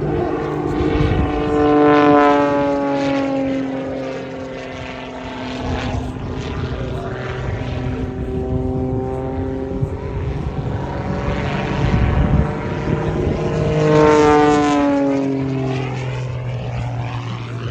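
Extra 330 aerobatic plane's piston engine and propeller running hard through its display, passing close twice, about two seconds in and again near the end, each time with the engine note dropping in pitch as it goes by.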